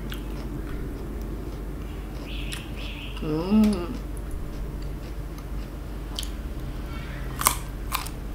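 Crisp green fruit dipped in shrimp paste being bitten and chewed at close range: a short hummed voice sound about halfway through, then sharp crunchy clicks near the end, the loudest of them just before the last second, over a steady low hum.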